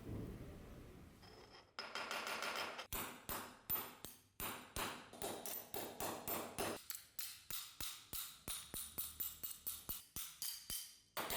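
Repeated sharp taps on metal, roughly two to three a second and unevenly spaced, each ringing briefly at the same pitch, starting about two seconds in.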